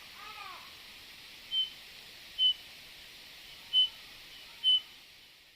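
A small forest songbird giving short, clear whistled notes, four of them about a second apart, over a steady background hiss.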